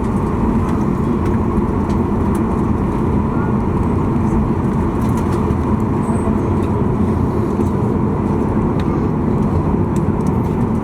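Steady cabin rumble of a Boeing 737-800 heard from an economy seat, with its CFM56-7B engines running and the airframe rolling on the ground after landing. A low, even roar with no changes.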